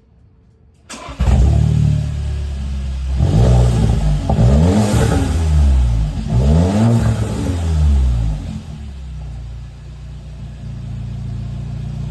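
A 2021 Volkswagen Tiguan's 2.0-litre turbo four-cylinder starts about a second in, is revved up twice, then settles to a steady idle. It runs with the exhaust open at a freshly cut pipe and the rear muffler disconnected.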